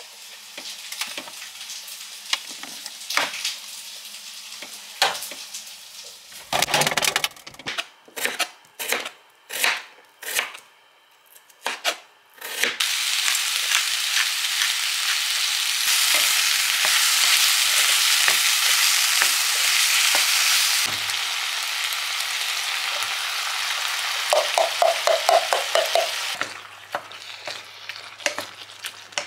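Kitchen work: a scatter of knocks and clatters from utensils for about twelve seconds. Then food goes into a hot pan and sizzles loudly and steadily for about fourteen seconds, with a quick run of taps near the end before it quietens.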